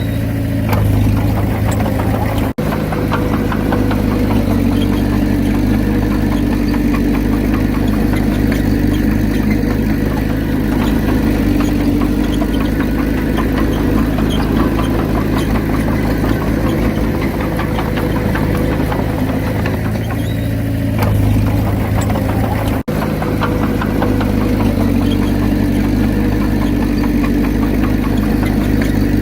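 Komatsu D31P bulldozer's diesel engine running steadily with a fast, even knocking rhythm. The sound cuts out for an instant twice, about two and a half seconds in and near the end.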